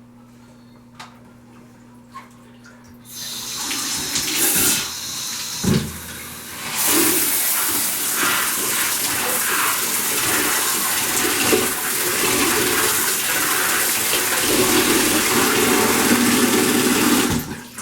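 A detachable shower head on a powerful spray setting spraying water onto soiled cloth wipes. It starts about three seconds in, eases briefly, then runs steadily and cuts off suddenly near the end.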